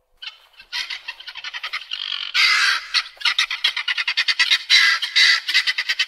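Birds squawking in a rapid run of short harsh calls, several a second, starting just under a second in, with one longer harsh squawk about two and a half seconds in.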